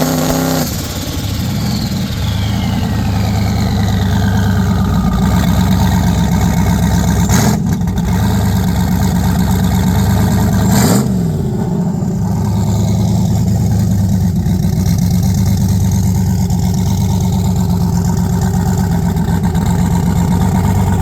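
Turbocharged V8 of an OBS GMC pickup running and being revved, with a whine that falls in pitch over the first few seconds, then settling into a steady run.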